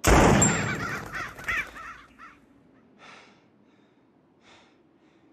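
A loud, sudden bang at the start that dies away over about two seconds. A bird caws over the tail of it, with fainter caws about three and about four and a half seconds in.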